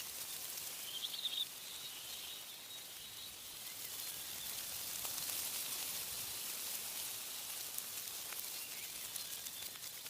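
Wind rustling through tree leaves as a steady hiss that swells a little midway. A bird gives a short chirp about a second in, and faint birdsong comes and goes behind it.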